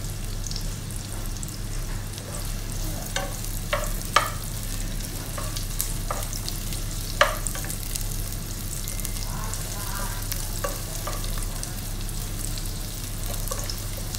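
Onion and garlic sizzling as they sauté in oil in a nonstick pot while being stirred, with a few sharp clicks of the stirring utensil against the pot, three about three to four seconds in and one near seven seconds. A steady low hum runs underneath.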